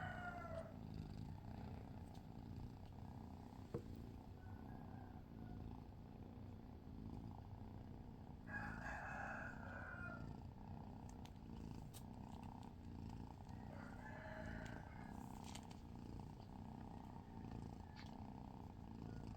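Domestic cat purring steadily, a continuous pulsing rumble. A drawn-out pitched call sounds about eight seconds in, and a fainter one around fourteen seconds.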